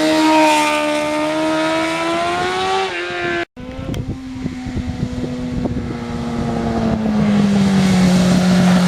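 Kawasaki ZX-6R's inline-four engine pulling with its pitch rising steadily for about three seconds, then cutting out abruptly. It comes back at a lower, ragged note with crackling and winds slowly down near the end.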